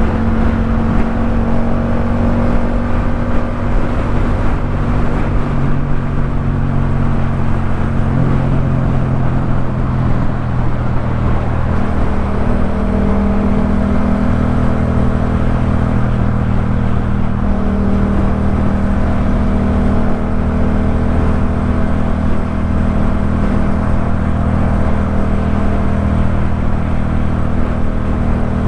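Yamaha MT-07's parallel-twin engine through a Jeskap K4 full exhaust, running steadily at riding speed. Its note steps down slightly about eight seconds in and rises again a few seconds later, with small throttle changes along the way.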